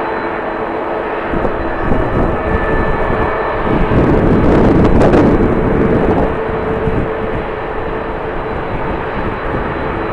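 Jet airliner engines with a steady whine under a rushing noise that swells to a peak about halfway through and then eases off, as the aircraft passes. Strong wind buffets the microphone with low rumbles.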